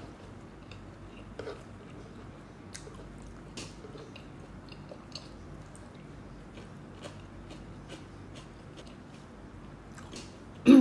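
Close-miked mouth sounds of someone eating: soft chewing with scattered small wet clicks and smacks. A louder, short sound comes right at the end.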